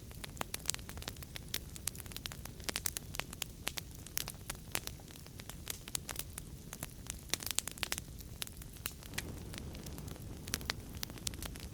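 Wood fire crackling in a fireplace: irregular sharp pops and snaps over a low steady rumble of flame, the pops thinning out in the last few seconds.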